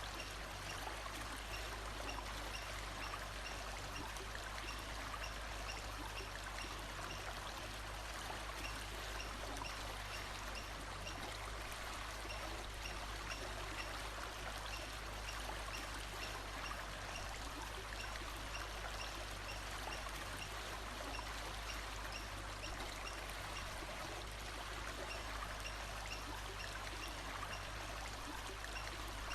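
Steady rushing of a forest stream, with faint short high chirps repeating about twice a second that fade after the first half.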